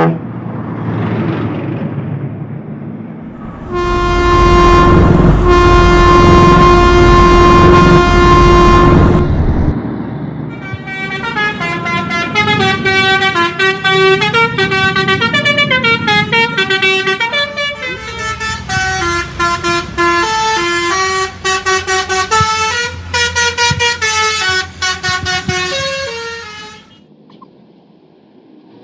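A truck's air horn sounds one long, loud held blast over the engine's rumble, then a multi-tone musical horn plays a quick stepping tune of changing notes for about fifteen seconds before cutting off.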